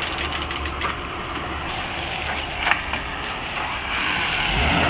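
An off-road Jeep's engine running steadily, with a few sharp clicks near the start and a louder rush of noise about four seconds in.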